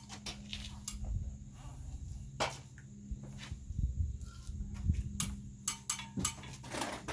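Hammer knocking a framing board into place on the timber lean-to, with sharp strikes and taps at uneven intervals. A steady low hum runs underneath.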